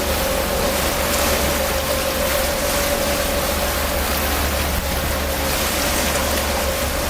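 Tour boat's engine running steadily under way, a low rumble and a steady hum beneath a constant rush of wind and water.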